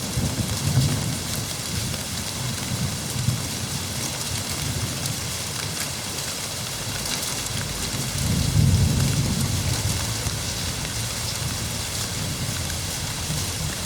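Steady rain hissing, with low rolls of thunder rumbling under it, the strongest about eight to ten seconds in.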